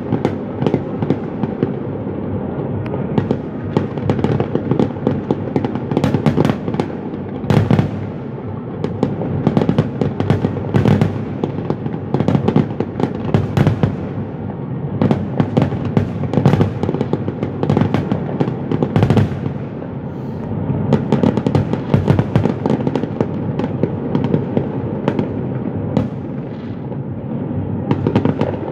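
Fireworks display going off without pause: many sharp bangs and crackles over a steady low rumble.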